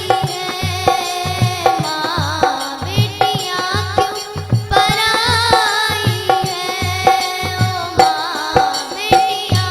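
A young girl singing a Hindi folk song, with ornamented held notes, over a steady beat on a hand drum.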